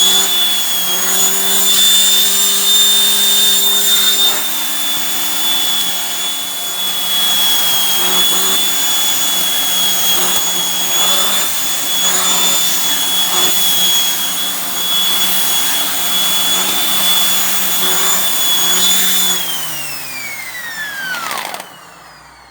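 Shark vacuum cleaner running on its bare-floor setting, a steady high motor whine. It is switched off about nineteen seconds in, and the whine falls away as the motor spins down.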